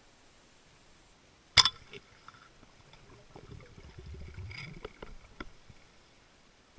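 Underwater sound: one sharp, loud crack about a second and a half in, then scattered clicks and a low rumble that swells and fades.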